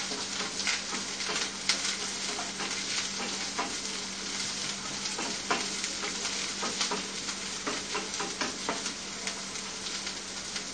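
Sliced onion and curry leaves sizzling in a little hot oil in a frying pan, with a utensil stirring and scraping against the pan in irregular clicks. A low steady hum runs underneath.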